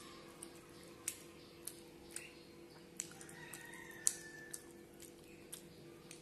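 Close-up eating sounds of a person chewing food with the mouth open: irregular wet smacks and clicks, about two a second, the sharpest one about four seconds in. A steady low hum runs underneath.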